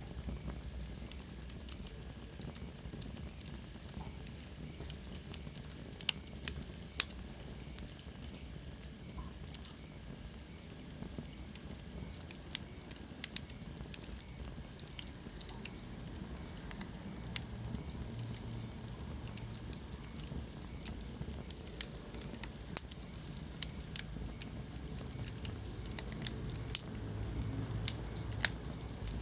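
Wood fire burning in a fireplace: a steady low rumble and hiss with sharp, irregular crackles and pops, the pops the loudest sounds. A faint high whistle slides down in pitch for a few seconds about a third of the way in.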